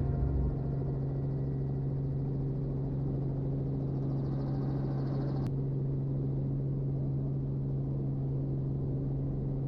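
Robinson R44 helicopter in flight, a steady, unchanging drone of engine and rotors.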